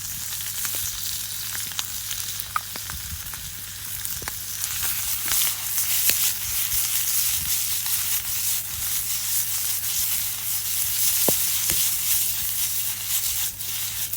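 Penne and olive oil sizzling in a deep frying pan over a campfire, with scattered clicks of stirring. The sizzle gets louder about four seconds in.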